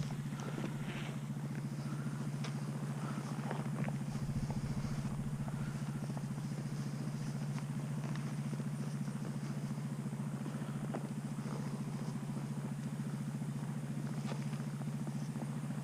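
Tractor engine running steadily at low revs, an even, unchanging hum, with a few faint knocks and clicks.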